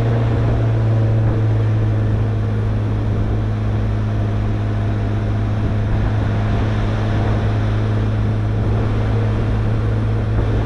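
Jeep driving along a beach at a steady pace: a constant engine hum under a steady wash of wind and tyre noise.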